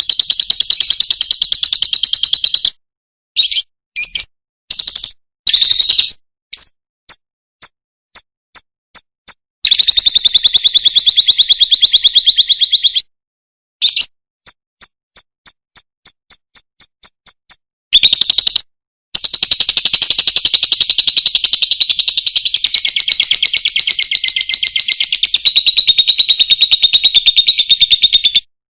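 Recorded animal calls from a masteran song-training track: long stretches of fast, buzzy, high trilling, broken by short pauses and by runs of sharp, separate chirps at about five a second.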